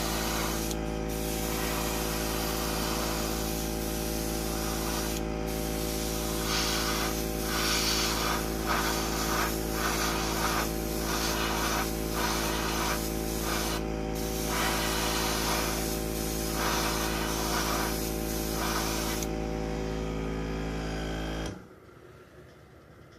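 An airbrush sprays primer with a steady hiss that breaks off briefly a few times, over the even hum of its air compressor. The spraying stops about nineteen seconds in, and the compressor cuts off about two seconds later.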